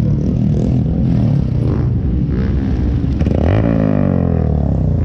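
Motor vehicle engine running steadily, its pitch rising briefly about three and a half seconds in.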